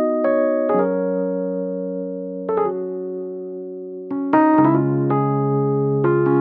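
Background music: slow electric piano chords, each struck and left to ring and fade, a new chord about every one to two seconds.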